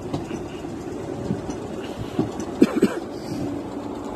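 Merseyrail electric multiple unit running over points and rail joints: a steady low rumble with scattered wheel clacks, loudest in a quick run of three clacks a little over halfway through.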